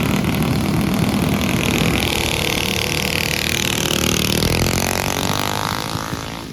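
Mini bike engines at full throttle racing past, their pitch falling as they go by; the sound fades near the end.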